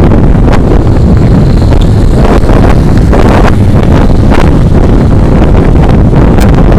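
Loud, steady wind buffeting on an action camera's microphone on a moving truck, with vehicle noise under it and scattered crackles.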